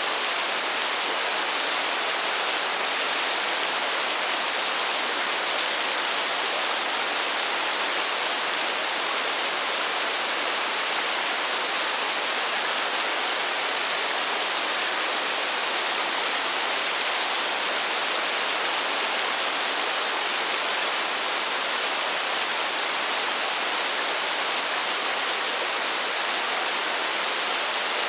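Steady rain: an even, unbroken hiss with no single drops standing out and no change in strength.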